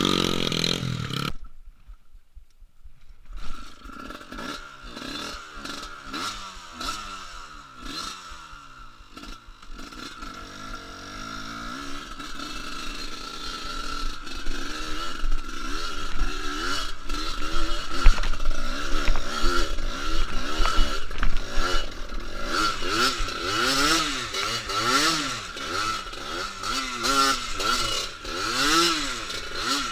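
Trail motorcycle engine revving up and down over and over as it rides, getting louder partway through.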